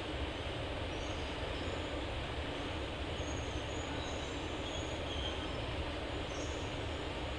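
Jet engines of a Boeing 777-300 running at taxi power: a steady, even noise with no rise or fall.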